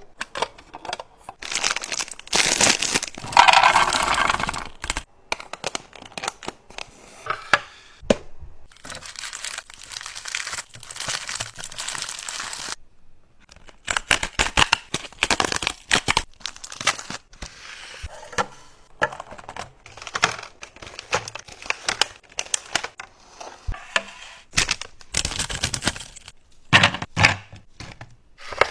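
Plastic packaging being handled: crinkling and tearing, broken up by many sharp clicks and light knocks of items being set down.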